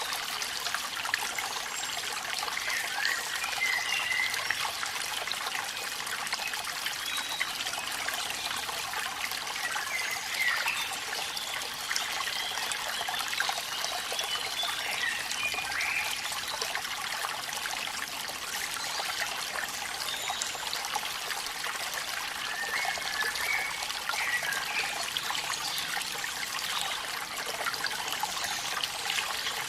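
Steady splashing and trickling of falling water, a waterfall with rain, as an even hiss with no pauses. Faint short high chirps come through a few times.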